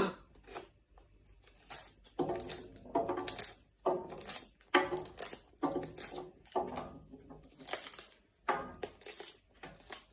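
A parrot crunching and tearing at something with its beak: a series of short, crisp crunches at about two a second, starting about two seconds in.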